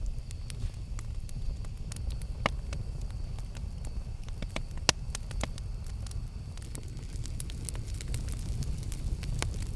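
Campfire burning with a steady low rumble and frequent irregular sharp crackles and pops, the loudest about two and a half and five seconds in.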